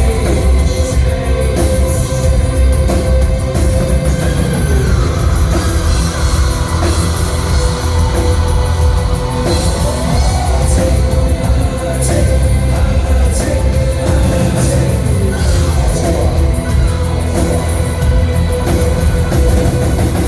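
An industrial rock band playing live through a PA in a large hall: heavy bass and drums under a held synth note that slides up and down every few seconds.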